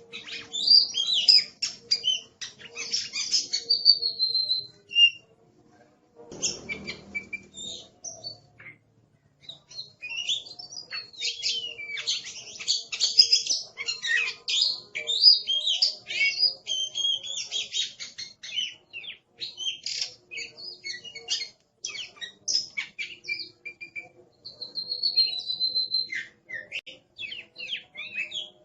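Oriental magpie-robin singing a loud, busy, varied song of rapid chirps, whistles and trills, broken by short pauses. A brief low rustle sounds about six seconds in.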